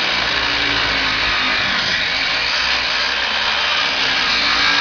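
Angle grinder cutting through a garage lock: a loud, steady grinding hiss.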